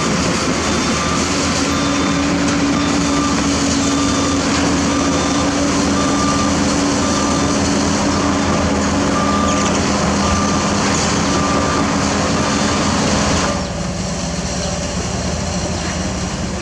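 Heavy diesel truck running with its reversing alarm beeping about once a second. The beeping stops about two-thirds of the way through, and the engine's level drops near the end.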